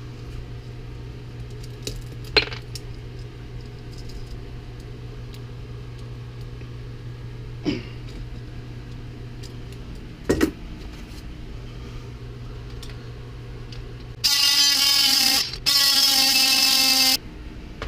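A few sharp metal clicks over a steady low hum, then two short, loud, steady runs of a power cutting tool near the end, cutting through a bearing to free it.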